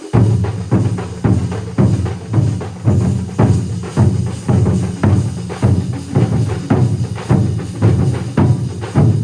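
A large ensemble of drums playing together. It comes in loudly just after the start, with heavy low strikes about every half second and quicker strokes between them.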